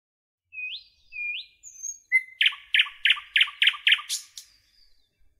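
Small caged birds chirping: two short rising chirps, then a quick run of about six loud repeated notes, roughly three a second.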